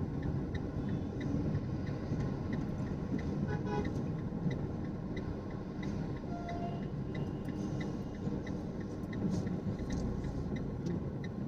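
Inside a moving car: steady engine and road hum with an even ticking of about three ticks a second throughout. A short horn toot sounds about three and a half seconds in.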